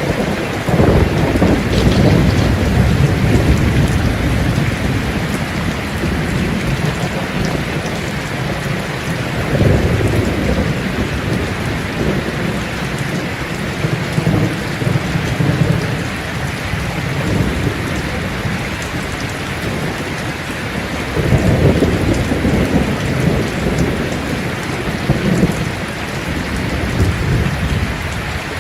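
Steady heavy rain with thunder rumbling through it, the rumbles swelling about a second in, around ten seconds in and again just past twenty seconds.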